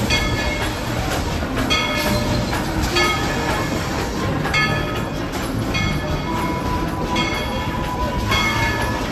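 Narrow-gauge train rolling along the track behind a coal-fired steam locomotive: a steady rumble, with a short high-pitched squeal recurring every second or so.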